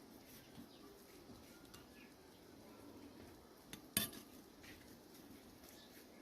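A single sharp clink about four seconds in, like a utensil striking a dish, over a quiet background.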